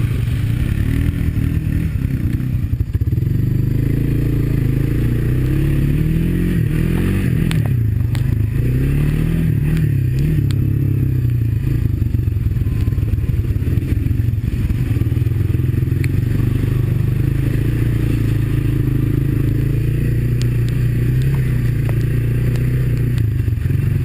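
Honda ATV's single-cylinder four-stroke engine running at low revs, rising and falling in pitch a few times between about six and eleven seconds in as the throttle is worked, with occasional knocks and scraping from the machine over the trail.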